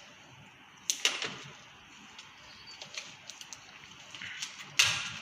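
Two sharp snapping cuts about four seconds apart, each with a short swishing tail, with light clicks of handling in between: instruments cutting into a chicken carcass during a postmortem.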